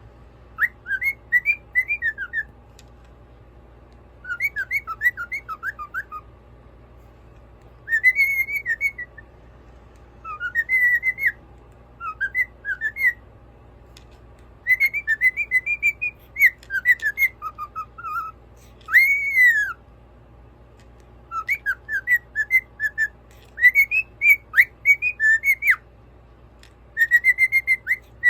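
Cockatiel whistling its song in short phrases of quick rising and falling whistled notes, each phrase a second or two long with brief pauses between, over a faint steady hum.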